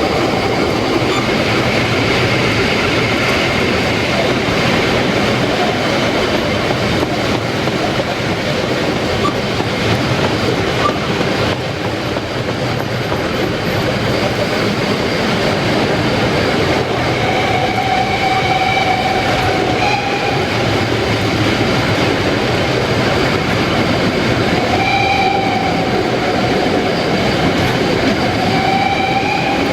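Harz narrow-gauge steam train running steadily with a continuous rumble and rattle of wheels on the rails. In the second half a high wheel squeal comes in several times.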